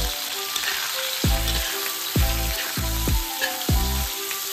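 Sliced pork, garlic and dried shrimp and squid sizzling in hot oil in an aluminium wok, stirred with a metal spatula. Background music with a steady beat of about two thumps a second plays over it.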